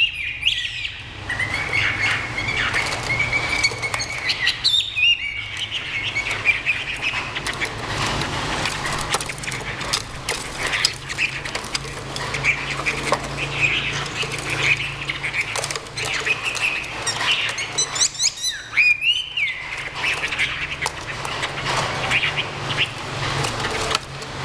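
Chinese hwamei songbirds calling and singing, with repeated warbled, gliding notes, along with many sharp clicks and flutters of wings.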